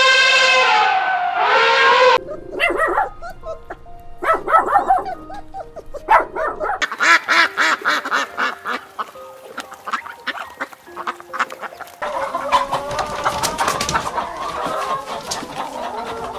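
A run of different animal calls over light background music. One long pitched call ends about two seconds in, followed by bouts of short, rapid calls.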